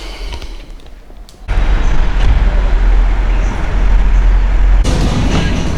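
Loud, steady vehicle rumble and road noise that cut in abruptly about a second and a half in, heaviest in the low end, with a change in texture near the end.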